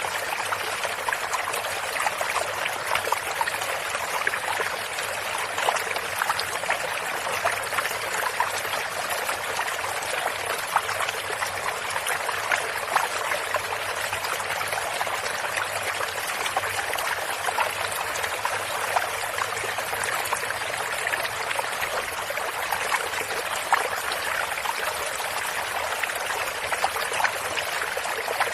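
Running water of a small stream or brook, a steady trickling and splashing with many small droplet sounds.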